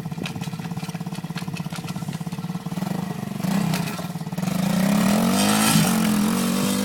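Superbike engine idling with a steady, pulsing note, then revved from about four and a half seconds in, its pitch rising and the sound growing louder.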